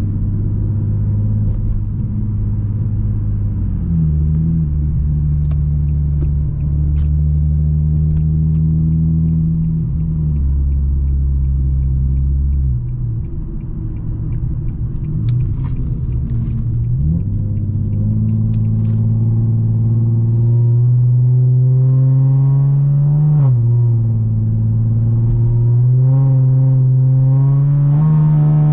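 Infiniti G37x's V6 engine and exhaust under way, holding a steady drone at first, then rising in pitch as the car accelerates, with a sharp drop at a gear change about 23 seconds in, and climbing again near the end.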